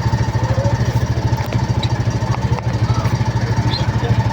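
An engine running steadily at idle: a low, rapidly pulsing rumble with an even thin tone above it.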